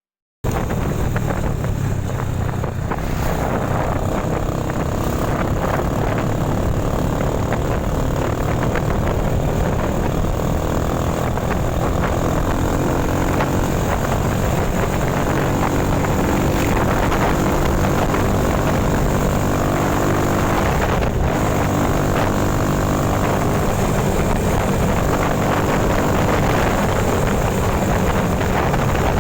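Engine of a vehicle running steadily on the road, with heavy wind rush over it.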